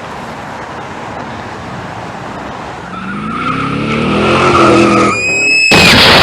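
Car crash sound effect: a car engine runs over road noise and revs up, its pitch rising. The tyres squeal for about half a second, and then a loud crash of impact comes near the end.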